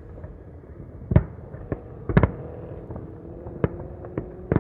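Aerial fireworks shells bursting: about six sharp bangs at uneven intervals, the loudest about a second in, with double bangs just past two seconds and near the end.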